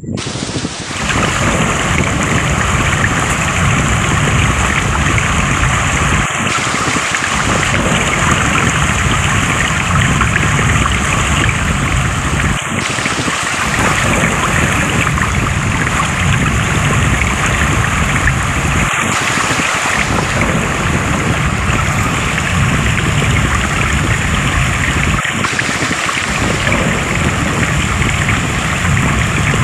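Flowing water rushing steadily and loudly, with a short dip in the low rumble about every six seconds.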